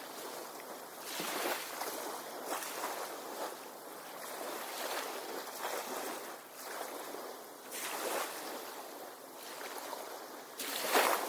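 Small bay waves washing onto the beach in repeated surges, a stronger wash near the end.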